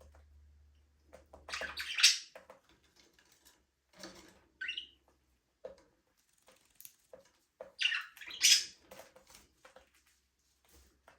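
Budgerigars chirping and chattering in short, scratchy calls, with small clicks between them. The loudest bursts come about two seconds in and again about eight seconds in.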